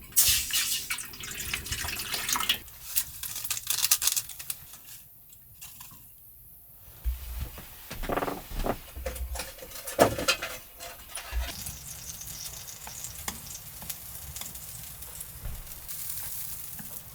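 Food cooking, a steady sizzling hiss with scattered clicks and knocks of utensils against cookware.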